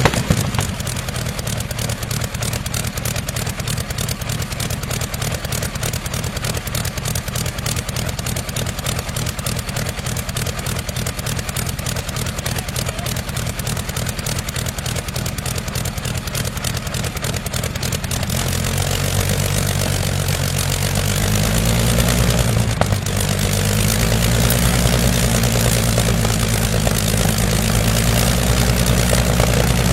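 An engine running at a steady idle with an even firing beat; about eighteen seconds in its speed rises and then wavers up and down.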